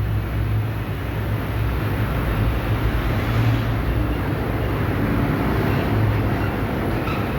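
Steady low mechanical rumble and hum.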